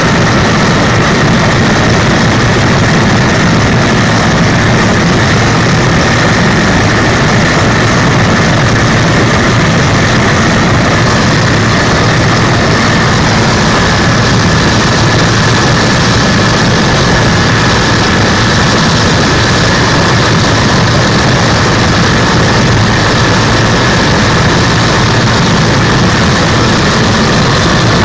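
Helicopter in flight: loud, steady engine and rotor noise with a thin high whine held over it, unchanging throughout.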